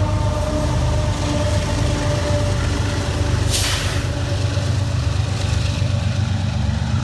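Train at a station, with a steady low engine rumble and faint steady tones that fade out over the first couple of seconds. A short hiss of air about three and a half seconds in.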